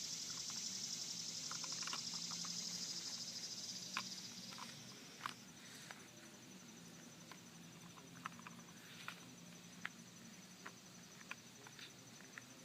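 Faint scattered clicks and taps of toy construction vehicles being worked in dirt, a toy front-end loader filling a toy dump truck. Beneath them runs a steady high hiss that fades about four seconds in.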